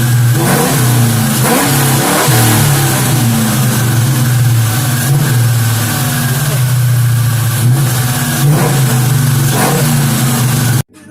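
2003 Ford Mustang GT's 4.6-litre two-valve V8, fitted with BBK long-tube headers, an off-road X-pipe and SLP LoudMouth mufflers, running loud at idle with several quick blips of the throttle. The sound cuts off suddenly near the end.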